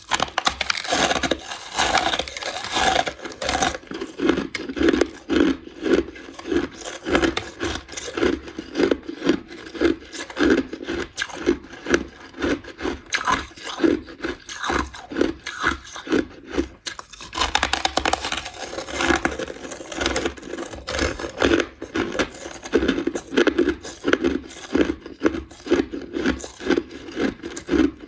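Crushed ice being crunched and chewed close to the microphone: dense crackling with a steady chewing rhythm, and brighter, sharper crunches near the start and again about two-thirds of the way through.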